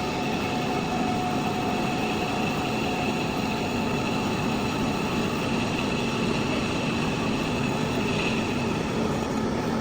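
Metal lathe running steadily while machining a pulley, a dense mechanical noise with a thin, steady high whine over it.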